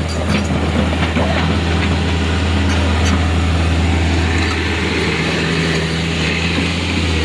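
Heavy diesel engine running steadily with a deep, constant hum and rough mechanical noise over it.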